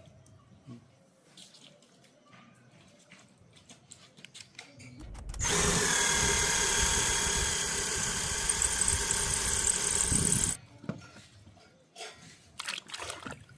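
A small motor runs steadily with a loud whirring hiss for about five seconds, starting about five seconds in and cutting off suddenly. Faint small knocks and trickles come before and after it.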